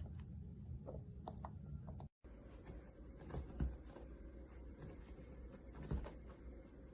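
Quiet room noise with a low hum and a few faint, scattered taps and rustles. The sound drops out briefly about two seconds in, where one clip cuts to the next.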